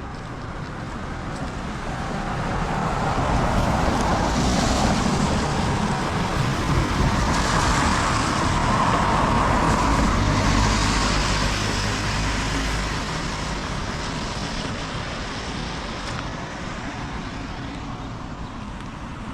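A car passes slowly on a wet road. The hiss of its tyres and a low engine hum swell for several seconds and then fade away.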